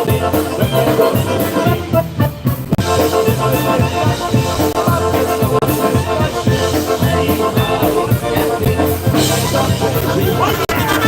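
A live polka band playing a song, with drums and a steady bass beat; the band eases back briefly about two seconds in.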